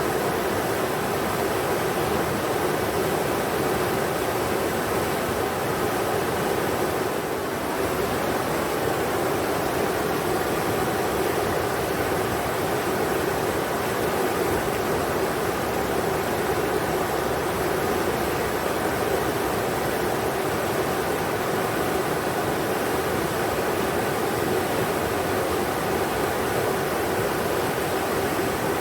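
River water rushing steadily over rocks, a constant even rush with no breaks.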